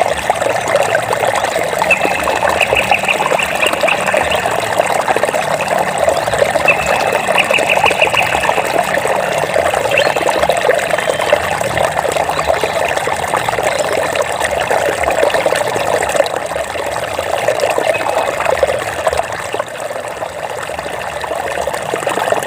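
Running water, a stream trickling and splashing steadily over stones. A faint rapid trill sounds briefly twice in the first third.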